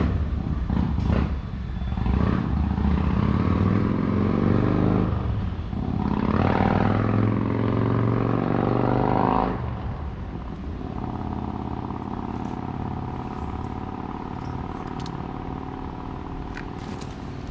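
Motor vehicle traffic passing: an engine grows loud from about two seconds in, rises in pitch as it accelerates and drops off sharply near the ten-second mark, followed by a quieter, steady engine hum.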